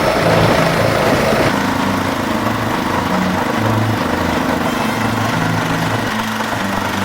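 Walk-behind tractor's engine running steadily under way, its pitch shifting up and down a little, with a burst of extra noise that drops away about a second and a half in.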